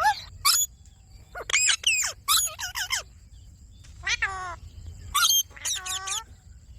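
Indian ringneck parrot calling: a string of short, pitched squawks and chirps that slide up and down in pitch, coming in irregular clusters with brief pauses.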